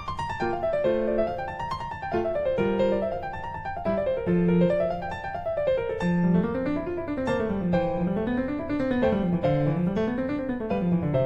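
Background piano music, quick notes rising and falling in repeated flowing runs.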